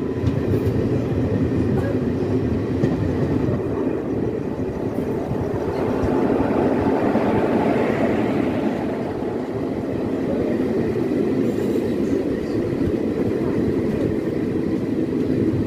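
Passenger train coach rolling over the rails, heard from its open doorway: a steady, loud rumble and rattle of wheels on track, with no break.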